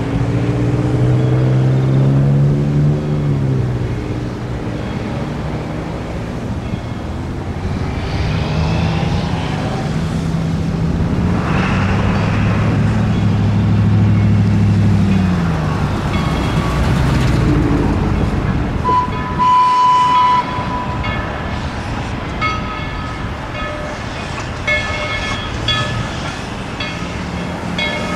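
A train running, with a low steady drone that shifts in pitch over the first half, a short high toot about two-thirds through, and quick repeated high tones toward the end.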